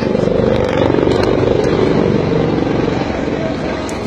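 HAL Dhruv helicopters flying past, a loud mix of rotor chop and turbine engine noise that swells to its loudest about a second in and then eases slightly.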